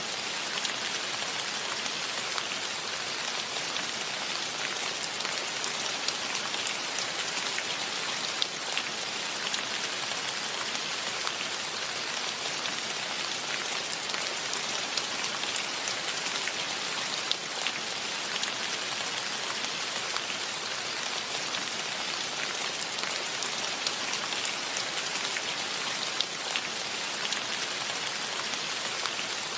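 Steady rain falling: a dense, even hiss with scattered sharp ticks of individual drops striking surfaces.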